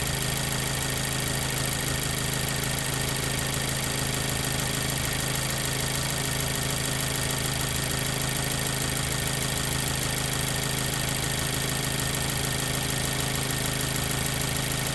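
2014 Mazda 3's 2.0L four-cylinder engine idling steadily while it warms up, running on newly fitted spark plugs after a cylinder 2 misfire.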